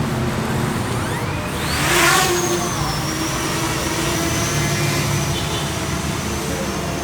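Parrot Anafi drone's electric motors and propellers spinning up, the whine rising in pitch about a second in, then holding a steady high whine over a rushing noise.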